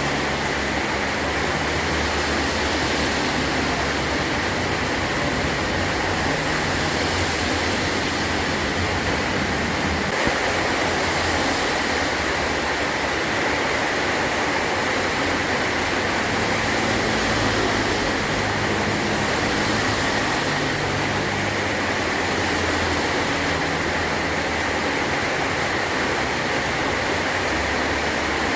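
Heavy rain pouring steadily onto a metal roof, a dense even hiss with a low rumble underneath.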